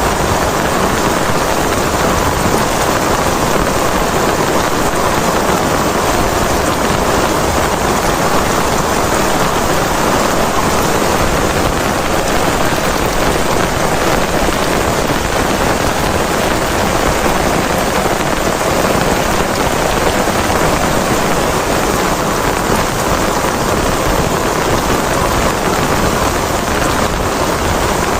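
Heavy rain falling steadily, an even unbroken hiss of rain on surfaces with no let-up.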